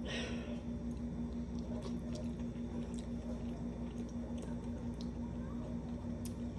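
Soft squishy mouth sounds and small faint clicks of someone biting into and chewing a hot, soggy microwaved dumpling, over a steady low hum. A short breathy rush comes right at the start.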